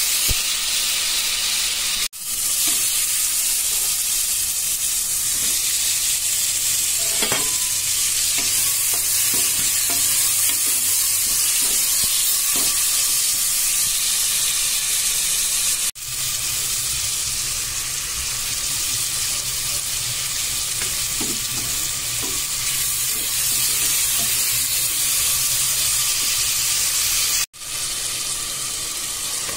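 Onions, green chillies, ginger-garlic paste and tomatoes frying in hot oil in a pressure cooker. The steady sizzle has light scraping from a wooden spatula stirring the pan, and it breaks off sharply for an instant three times.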